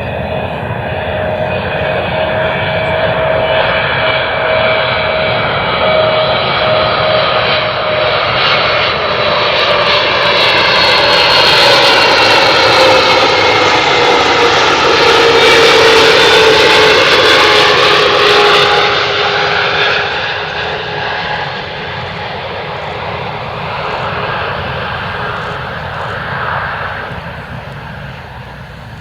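Boeing 777-300ER's twin GE90-115B turbofans on landing approach, passing close by. The sound grows louder, the engine whine falls in pitch as the jet goes past, and it fades away over the last several seconds.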